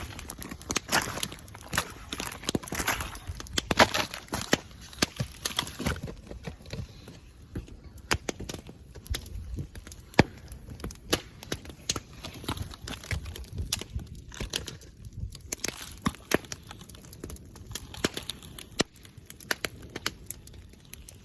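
Bamboo bonfire burning: irregular crackling with many sharp snaps and pops throughout, busiest in the first few seconds.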